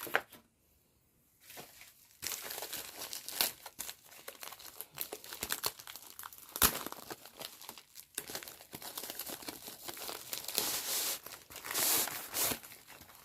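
Crinkly packaging of a diamond painting kit being handled and opened: continuous rustling and crinkling with sharp crackles, starting about two seconds in after a brief hush.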